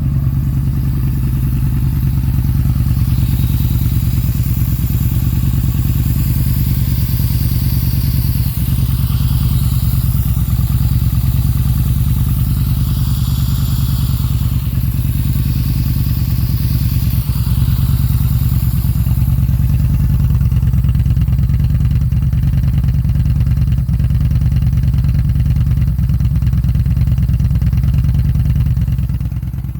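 2018 Yamaha Bolt's air-cooled V-twin idling steadily through an aftermarket Bassani 3.5-inch slash-cut exhaust, shortly after a cold start.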